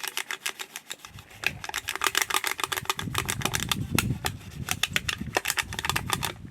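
Rough sandpaper fig (Ficus exasperata) leaves scrubbed hard and fast against a tarnished metal object to polish it: a rapid scratchy rasping of many quick strokes.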